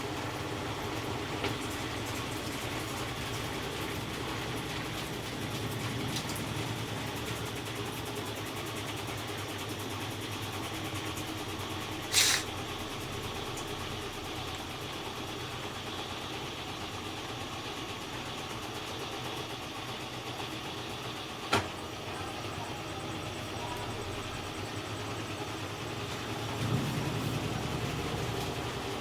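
GE EcoPerformance 15 kg washing machine in its spin cycle: a steady hum of the motor and spinning basket. Two sharp clicks come about twelve and twenty-one seconds in, and a deeper rumble swells briefly near the end.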